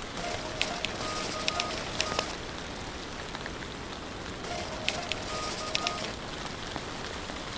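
Rain falling steadily, with sharp individual drops ticking. A faint steady tone comes and goes about three times.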